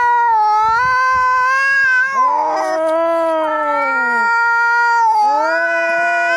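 Angry cats caterwauling: long, drawn-out yowls of about two seconds each that waver up and down in pitch, with a second cat's yowl overlapping the first about a third of the way in.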